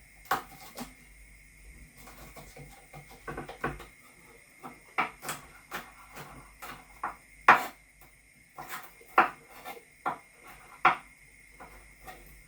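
Kitchen clatter: irregular sharp knocks and clinks of utensils, pots and dishes being handled, the loudest about halfway through.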